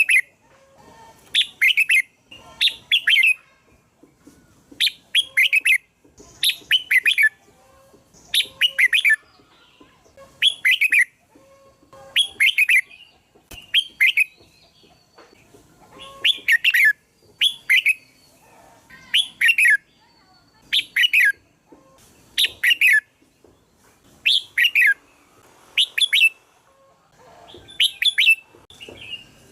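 Red-whiskered bulbul singing: short, bright whistled phrases of falling notes, repeated about every second and a half. It is a calling track of the kind played to attract bulbuls.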